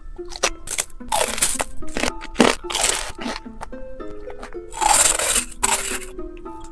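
Loud crunchy bites and chewing of food, several separate crunches, over background music.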